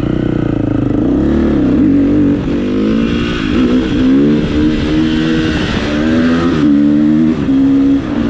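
Dirt bike engine revving up from idle and running under load, its pitch rising and falling repeatedly, with several short dips as the throttle is rolled off and back on.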